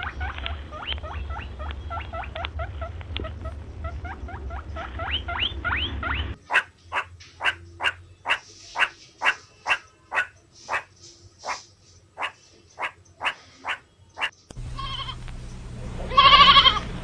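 A run of animal calls from three clips in turn. First come quick, rapidly repeated rising chirps over a low hum. Then a steady series of short, sharp calls comes about every two-thirds of a second. Near the end a loud bleat follows.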